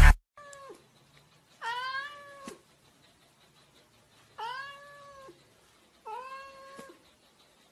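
A cat meowing four times: a short meow near the start, then three longer meows about two seconds apart.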